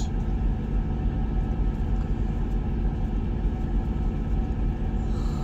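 A car engine running steadily: an even, low drone that neither rises nor falls.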